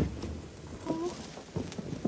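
Fireworks popping and cracking irregularly: a handful of sharp reports, with a brief voice about a second in.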